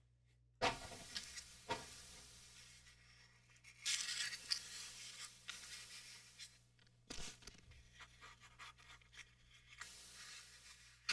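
Packaging being handled by hand: irregular rustling and scraping, with a sharp rustle about half a second in and a longer rustle around four seconds in.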